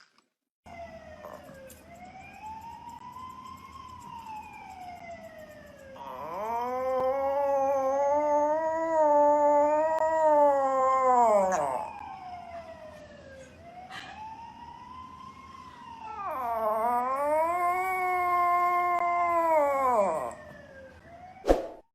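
A dog howling along with a wailing siren: the siren rises and falls slowly throughout, and the dog joins in with two long, wavering howls, the first starting about a quarter of the way in and the second a little past the middle.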